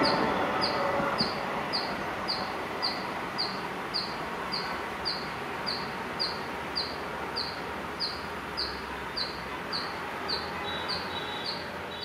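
A bird's short, high chirp repeats evenly about twice a second over the fading noise of the train going away.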